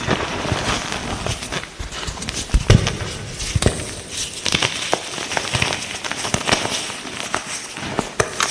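Light green gym chalk being crushed: crisp, irregular crunching and crackling with many sharp snaps, the heaviest crunch a little under three seconds in.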